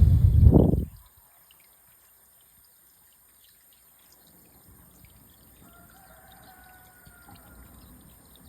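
A loud rush of air buffeting the microphone for about the first second, then faint trickling water. About six seconds in comes a faint, drawn-out distant bird call lasting under two seconds.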